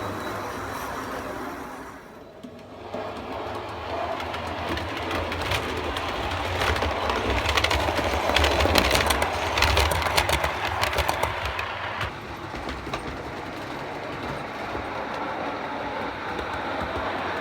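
O gauge model train running on the layout's track, its wheels clicking rapidly over the rail joints. It grows louder as it draws near, is loudest about halfway through, then fades a little as it moves off.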